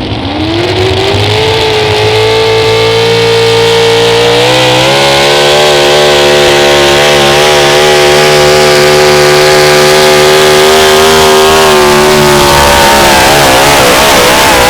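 Competition pulling vehicle's engine run hard at full throttle under load. Its pitch climbs over the first couple of seconds, steps up again about four and a half seconds in and holds steady. Near the end it wavers and drops.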